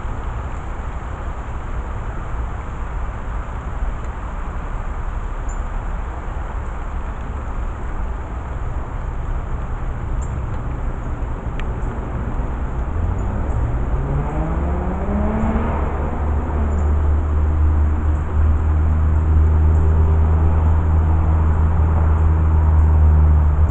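Motor vehicle engine over a steady low rumble: about halfway through its pitch rises, then it settles into a loud, steady low drone that lasts to the end.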